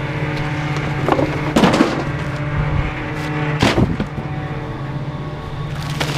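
Garbage truck engine running steadily, with two loud cracking impacts about one and a half seconds and three and a half seconds in.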